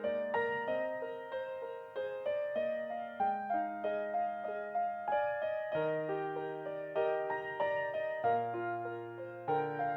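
Gentle piano music: single notes and chords struck at an unhurried pace, each note fading after it is struck.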